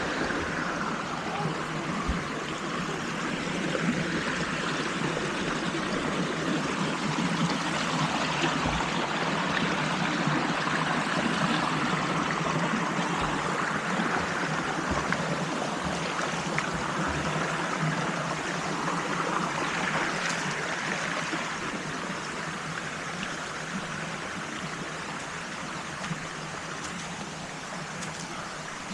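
Waterfall stream rushing steadily over rocks. It swells a little in the middle and eases slightly near the end.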